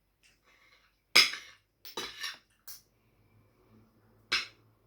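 Cutlery clinking against dishes during a meal: a handful of sharp clinks, the loudest about a second in and another near the end.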